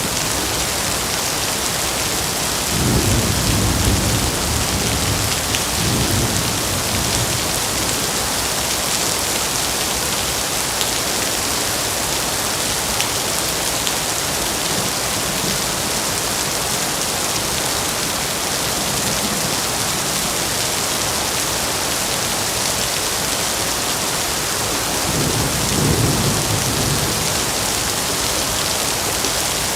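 Heavy rain falling steadily in a dense, even hiss. A low rumble swells under it about three seconds in, and again near the end.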